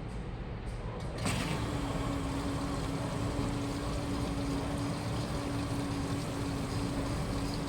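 Washing machine running: a sharp click about a second in, then the motor starts again with a steady hum over the noise of the turning drum.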